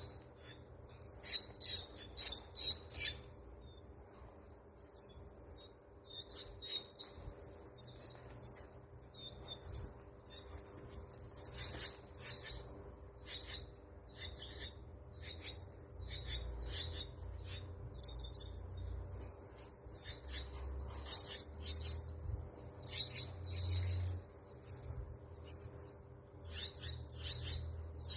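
Great myna calling: repeated bursts of sharp, chirping notes, a second or two apart, with the loudest bursts near the start and about two-thirds of the way through.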